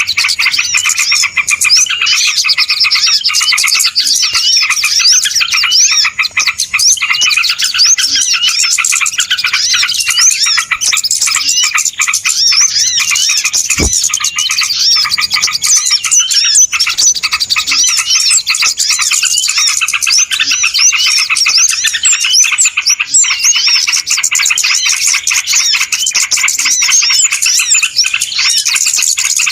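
Dense, unbroken chirping and chattering of a busy flock of small birds, many short rising and falling notes overlapping. This is a bird-lure (pikat) recording of noisy small birds, meant to draw other small birds in. One brief low tap sounds about fourteen seconds in.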